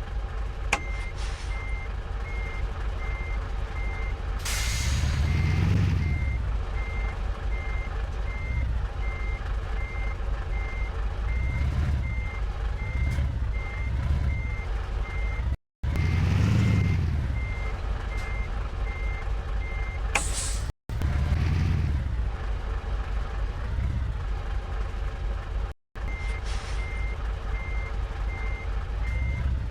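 Reversing alarm beeping steadily about twice a second over a running engine, with a burst of hissing about five seconds in.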